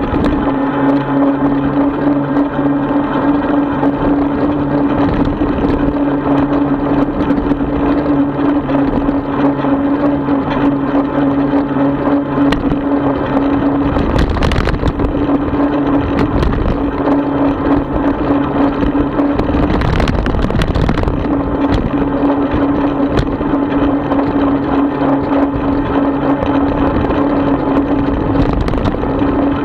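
A 36-volt electric bike's motor whining at a steady pitch under way, over rolling and wind rumble. The whine drops out briefly twice, about halfway through and again a few seconds later, as louder rumble takes over.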